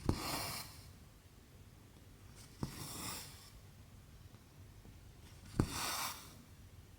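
Cross-stitch needle popping through cotton fabric, each time followed by a short rasp of cotton thread being drawn through. Three stitches, about three seconds apart.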